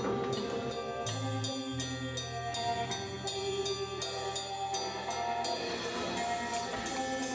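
Band playing an instrumental passage: drums keep a steady beat of about three sharp strikes a second over held bass and chord tones.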